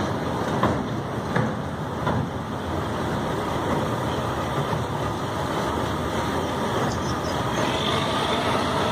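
Train running across a steel truss railway bridge, heard from the front of the train: a steady rumble with a few short knocks in the first couple of seconds.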